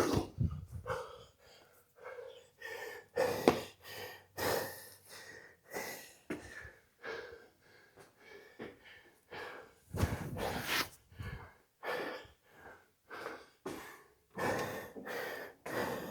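Hard, rapid breathing of a man winded mid-workout: short gasping breaths about once a second, heavier for a moment near the middle.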